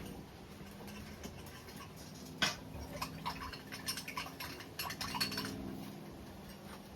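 Metal pieces being handled, most likely chain links and tools at the forge: one sharp clank about two and a half seconds in, then a run of light, irregular metallic clinks for about three seconds over a faint low hum.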